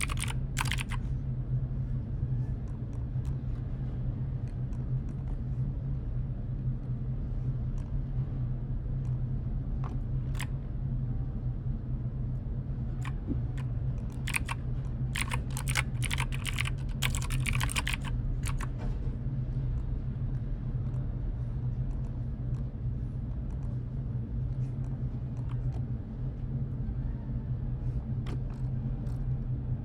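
Typing on a computer keyboard in short bursts: a quick run of keystrokes at the start, another longer flurry from about 14 to 18 seconds in, and scattered single key clicks in between. A steady low hum sits under it throughout.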